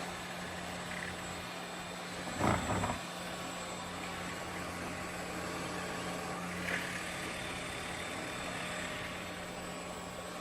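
Roborock Qrevo S5V robot vacuum running with a steady hum. A short knock about two and a half seconds in, and a fainter one near seven seconds.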